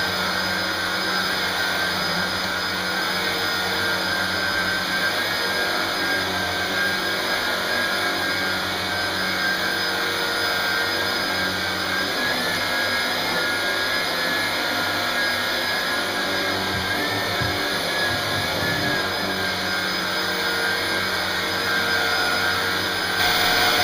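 Vax U91-MA-B bagless upright vacuum cleaner running steadily while being pushed over carpet, a constant motor whine over rushing suction, a little louder near the end.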